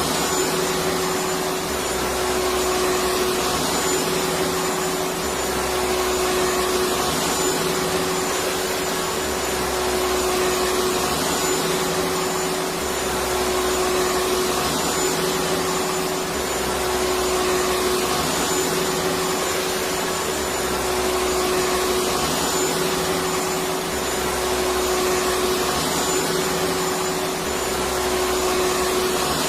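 Electric vacuum cleaner running steadily: a constant rushing hum with a steady whine, and a faint low pulse that repeats about every two seconds.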